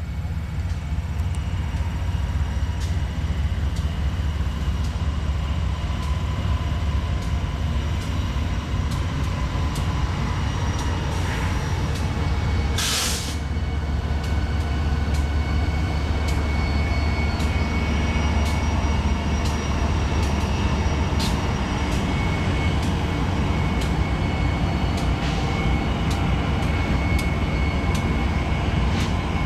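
A string of BNSF diesel-electric freight locomotives passing at close range: a steady deep engine rumble with a few thin high tones and scattered sharp clicks, and one brief loud hiss about halfway through.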